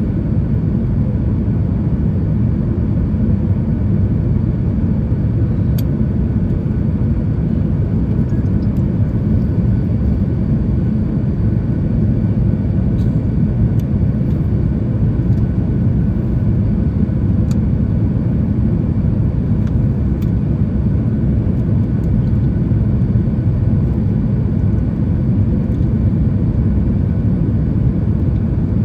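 Steady low rumble of a Boeing 737 MAX 8's cabin in flight, with engine and airflow noise heard from a window seat.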